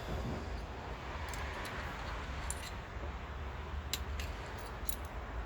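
Small metal parts and tools being handled: a scattering of light clicks and clinks over a steady low hum.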